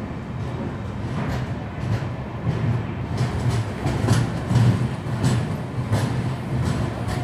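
Passenger train coaches rolling along a station platform: a steady low rumble of wheels on rails with repeated clacks, the clacks growing more frequent in the second half.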